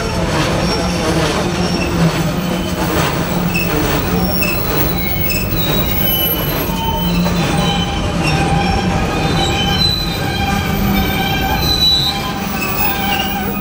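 Freight train of tank cars rolling past: a steady rumble of the cars, with thin high wheel squeals coming and going, more of them in the second half. Wheel clicks sound over the rail in the first few seconds.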